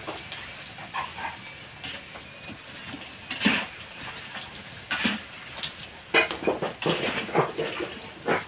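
Krupuk crackers frying in hot oil in a wok, stirred with a spatula. Over it an animal gives short calls, once about three and a half seconds in, again about five seconds in, then several in a row from about six seconds in; these calls are louder than the frying.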